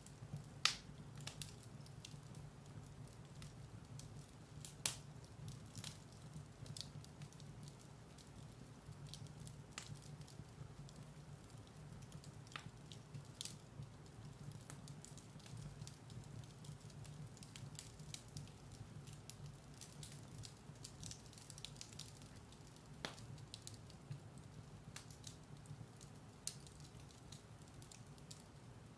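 Firewood burning in a fireplace: a steady low rumble of the fire with irregular sharp crackles and pops, the loudest about a second in and again near five seconds.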